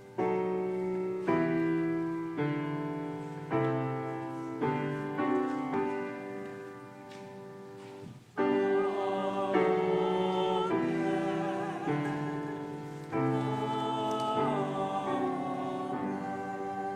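Piano playing a slow series of struck chords, each fading before the next. About eight seconds in, several voices enter and sing over the piano with vibrato: a short choir piece or sung response with piano accompaniment.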